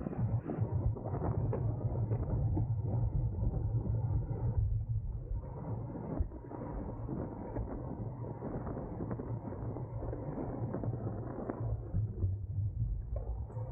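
Wind buffeting the microphone of a camera on a racing bicycle ridden at race speed: a steady low rumble with rough fluttering.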